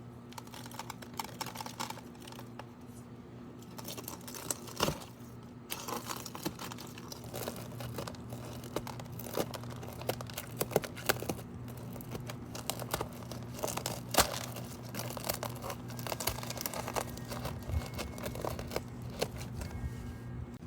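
Sunflower seeds being rubbed and picked out of a dried flower head: irregular crackling, rustling and sharp snaps, busier after the first few seconds, over a faint steady hum.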